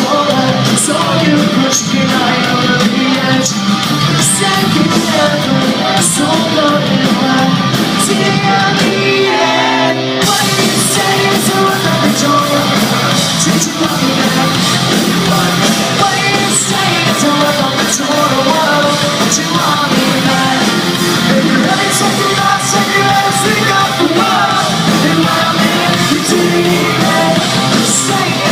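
Pop-punk band playing live: distorted electric guitars, bass and drums with regular cymbal hits. The cymbals drop out for about two seconds around ten seconds in, then the full band comes back in.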